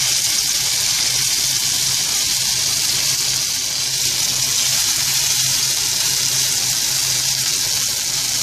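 Spice-paste-coated colocasia (arvi) pieces sizzling steadily in hot shallow oil in a frying pan, just after being put in.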